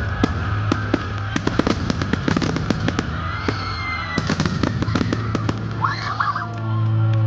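Fireworks going off in quick succession, many sharp cracks and pops over a steady low drone. Near the end the drone gets louder and voices rise.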